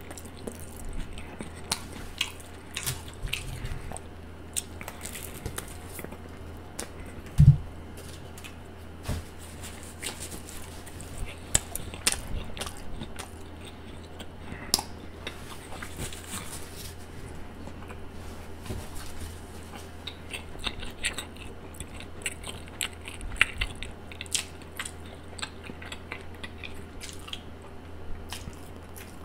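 Close-miked chewing of a mouthful of sub sandwich: wet mouth clicks, smacks and soft crunches. A single loud low thump comes about seven and a half seconds in.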